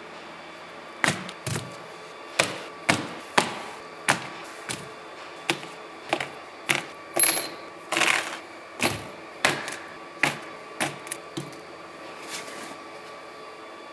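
A run of about twenty sharp knocks and clicks at irregular intervals, roughly one or two a second, over a steady background hum, as tools and parts are handled during alternator work.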